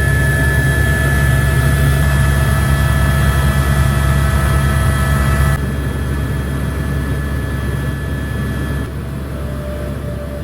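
Helicopter turbine engine and rotor running steadily: a loud low drone with a high turbine whine over it. The sound drops abruptly to a quieter level about halfway through and again near the end.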